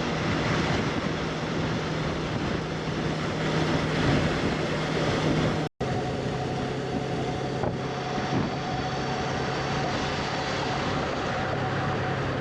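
Honda CB500X parallel-twin engine running steadily under way, mixed with wind and road noise. The sound cuts out for an instant about six seconds in and comes back with a slightly lower engine note.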